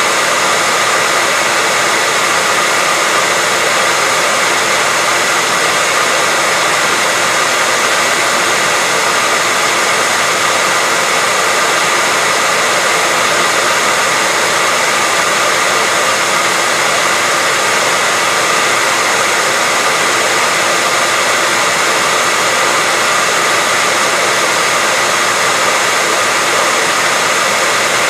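Hair dryer running steadily: a constant airy rush of fan and airflow with a faint steady whine.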